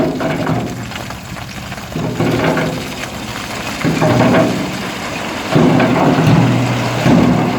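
Diesel engine of a construction machine spreading brick rubble, revving hard in repeated surges about every one and a half to two seconds, with a rumbling noise.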